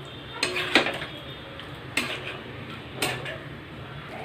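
Metal spoon knocking and scraping against a cooking pot while stirring, about five sharp clacks, some with a short ring.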